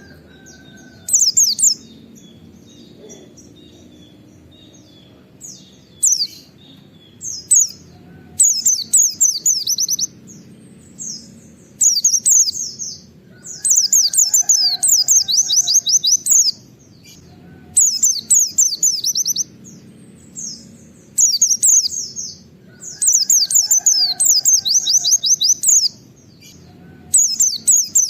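Pleci (white-eye) singing in repeated rapid bursts of high, fast, downward-sweeping notes. The bursts run from under a second to several seconds, with short pauses between them: the fast 'nembak' song with 'wit wit' notes.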